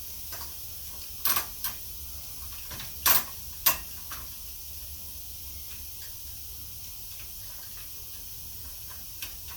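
A few sharp clicks and knocks of bicycle parts being handled as a rear wheel with a coaster brake and its chain are fitted back onto a child's bike, in two close groups in the first four seconds.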